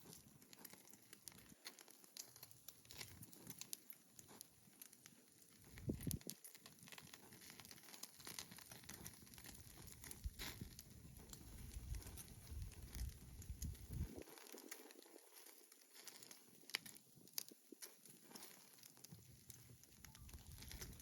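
Faint crackling of a wood campfire: scattered small clicks and pops, with a low thud about six seconds in.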